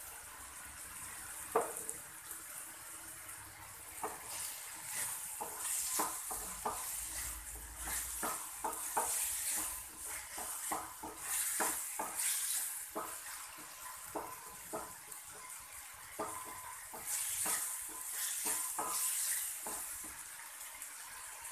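Onion-tomato masala sizzling in a kadai while a wooden spatula stirs it, with irregular taps and scrapes of the spatula against the pan and a hiss that swells and fades with each stir.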